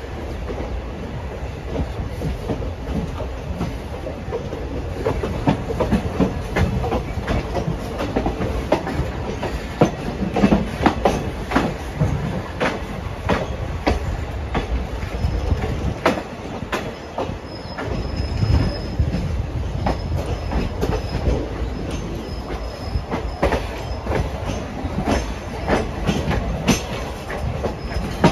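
Express passenger train running on the track, heard from aboard a coach: a steady rumble with the wheels clattering over rail joints and points in an irregular run of sharp clicks. A faint high wheel squeal comes in about halfway through.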